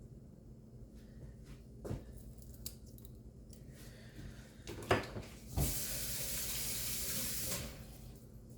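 A few light knocks of kitchenware, then a kitchen tap runs for about two seconds and shuts off.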